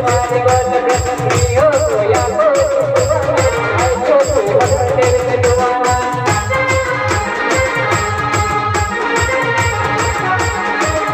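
Indian band music played loudly: a quick, steady drum beat under a wavering lead melody. About six and a half seconds in, the melody changes to steadier held notes over the same beat.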